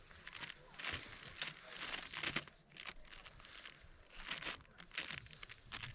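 Irregular crinkling and rustling close to the microphone, in short uneven bursts several times a second.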